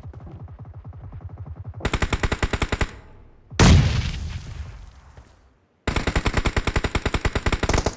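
Video-game automatic gunfire, about ten shots a second, muffled at first and then louder about two seconds in. Just before the middle a single loud blast fades out over about two seconds, and the rapid fire starts again near the end.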